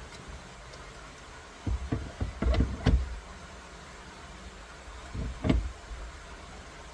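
Clunks and rattles of a steering wheel hub being worked on the splined steering column shaft, in two short bursts, the first about one and a half seconds in and the second about five seconds in.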